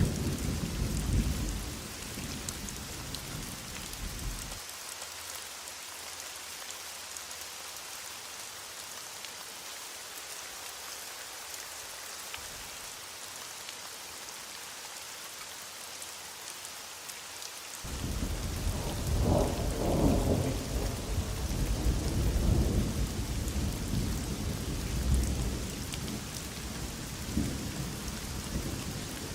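Heavy rain hissing steadily, with rolling thunder rumbling underneath. The thunder cuts off about four seconds in, leaving only the rain, then comes back suddenly about two-thirds of the way through and swells several more times.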